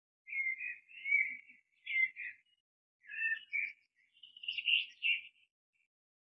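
A bird chirping in a series of short, high-pitched phrases, about five in all, that stop shortly before the end.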